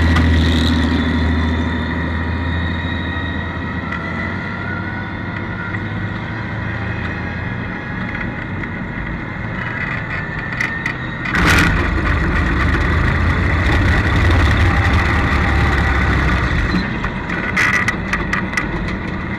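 Onboard sound of a 1932 Ford Super Modified's 300 cubic inch straight-six running. It eases off early on, and about eleven seconds in a sudden loud rush of noise comes before the engine picks up louder again. A few short sharp knocks come near the end.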